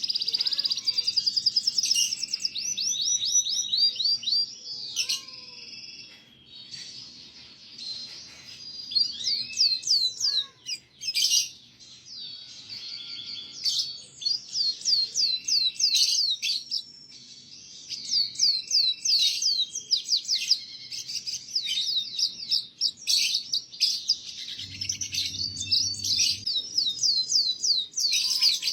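Canary singing: fast trills of rapidly repeated notes and quick sweeping phrases, high-pitched, with brief pauses between song bouts.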